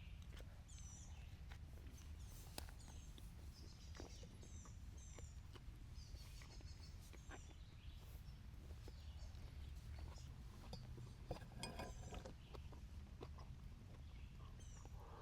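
Faint woodland ambience: a small bird gives short, high chirps again and again over a low steady rumble, with scattered light ticks and clicks.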